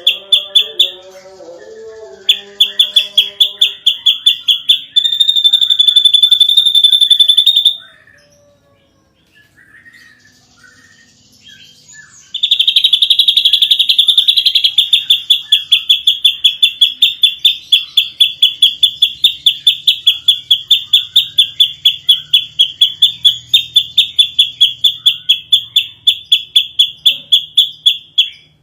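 Ashy drongo singing in long, rapid runs of sharp, high repeated notes, about four a second, with a steadier trill in the first third. The song breaks off for a few seconds near the middle, then resumes as one long unbroken run.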